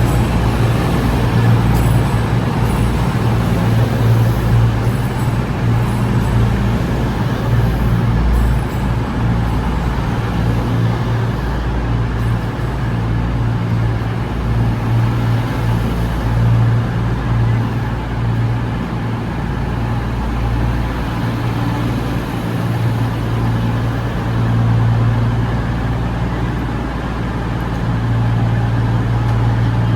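Diesel train engine idling steadily, a constant low hum with no revving.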